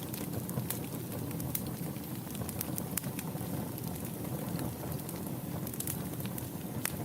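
Wood fire burning in a fireplace: a steady low rush of flames with many sharp, irregular crackles and pops.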